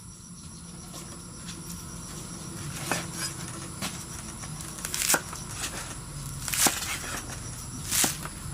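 Kitchen work sounds: a steady low crackle with a series of sharp knocks, about one every second or so, starting a few seconds in.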